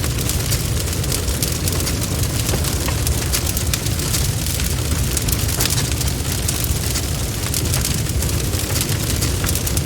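Bonfire burning with a steady low rumble and continual sharp crackles and pops from the wood.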